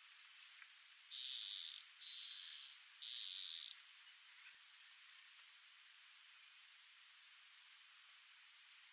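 Crickets and other insects of the evening field chirping in a steady, evenly pulsed high-pitched chorus. Three louder rasping calls of under a second each stand out in the first half.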